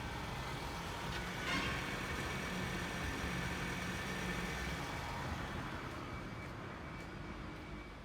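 Toyota 2AZ-FE 2.4-litre inline-four petrol engine idling steadily, growing a little quieter near the end.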